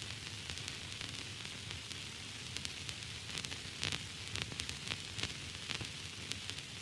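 Steady static hiss of white noise, sprinkled with frequent irregular crackles and pops.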